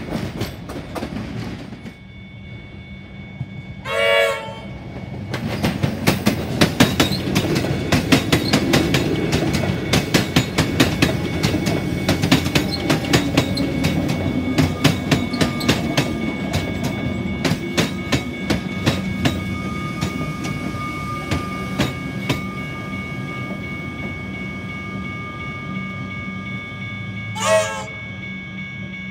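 Electric suburban trains passing. A short train horn blast sounds about four seconds in, then a train's wheels clatter over the rail joints in a rapid run of clicks for about fifteen seconds, and a second short horn blast comes near the end.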